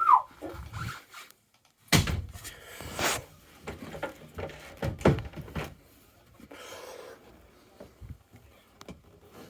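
A few irregular sharp knocks and clatters with rustling between them, the loudest about two and five seconds in, typical of handling and fittings being moved inside a coach.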